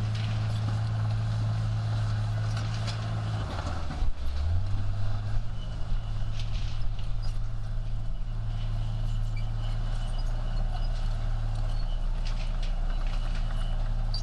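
Heavy diesel engine of a bulldozer running steadily under work. Its note drops briefly about four seconds in, then settles back.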